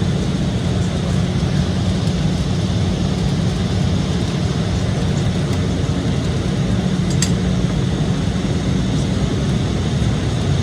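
Steady cabin drone inside an Embraer E-175 regional jet, with a low hum and a constant hiss, and a light click about seven seconds in.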